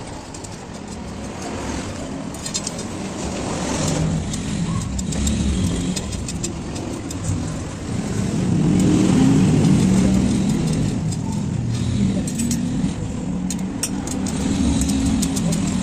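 Motor vehicle engine running close by, a steady low rumble that grows louder about eight seconds in, with scattered light clicks over it.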